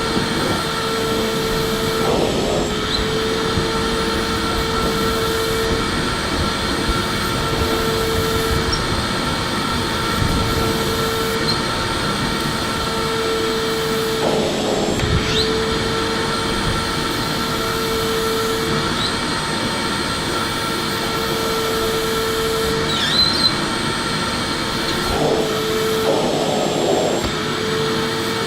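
Electric vacuum cleaner running steadily, a constant motor whine and rush of air. A humming tone in it breaks off briefly every few seconds.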